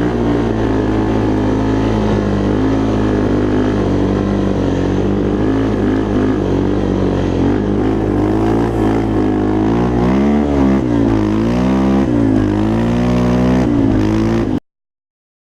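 Yamaha Raptor 350 quad's single-cylinder four-stroke engine running, steady at first, then revving up and down through the second half. The sound cuts off abruptly near the end.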